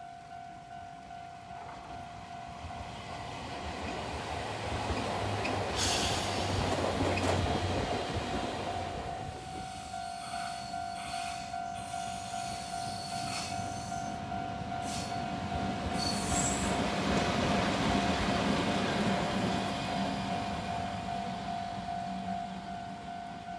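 Electric trains passing on the rails, swelling and fading twice, loudest about 7 and 18 seconds in, with a few sharp clicks from the wheels. A level-crossing warning bell rings steadily underneath.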